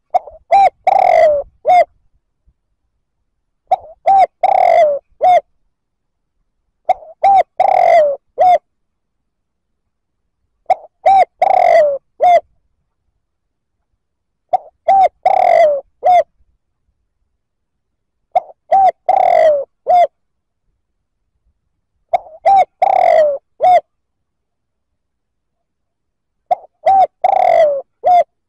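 Spotted dove cooing its song: a phrase of a few short coos around one longer, falling coo, repeated eight times at even intervals of nearly four seconds. It is the cooing used as a decoy call to draw in wild doves.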